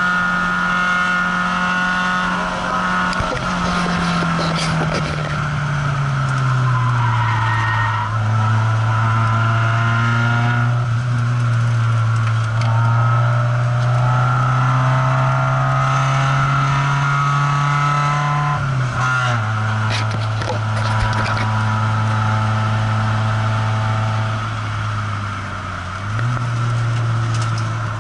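Car engine and road noise heard from inside the cabin while driving at speed. The engine tone falls in pitch about a quarter of the way in, holds steady, drops again about two-thirds through, and dips briefly before picking up near the end.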